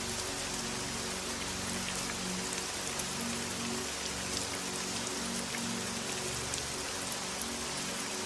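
Steady rain hiss with scattered drop ticks, over soft, low, sustained music tones that shift slowly.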